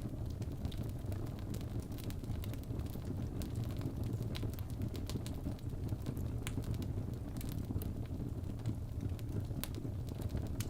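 Wood fire burning in a fireplace: a steady low rumble of flame with scattered sharp crackles and pops at irregular moments.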